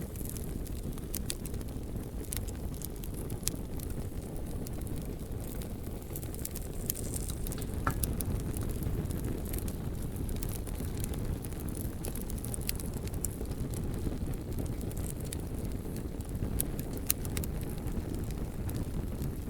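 Bonfire of logs burning: a steady low rumble of flames with scattered sharp crackles and pops throughout.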